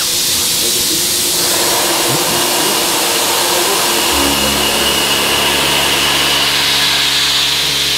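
CNC machining centre milling with an ISCAR LOGIQ high-feed cutter at 0.052 mm feed per tooth. A steady hiss of machine noise is joined about four seconds in by a steady low hum with several tones as the cut begins.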